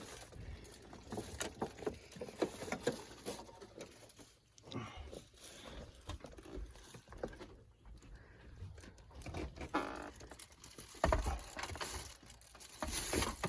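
Scattered light knocks, taps and rustles of a window air-conditioning unit and its fittings being handled, with a heavier thump about eleven seconds in.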